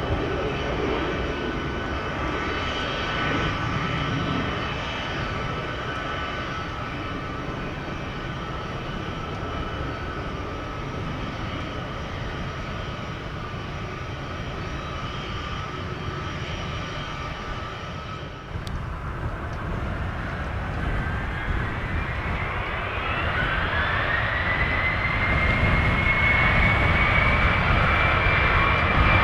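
Jet airliner engines whining steadily over a low rumble. After a sudden break about two-thirds of the way in, the engine whine rises in pitch and then holds high as the engines spool up to power.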